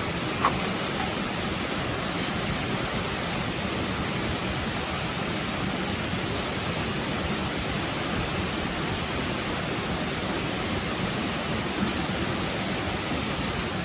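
Waterfall rushing: a steady, even roar of falling water, with a faint high-pitched pulse repeating a little faster than once a second above it.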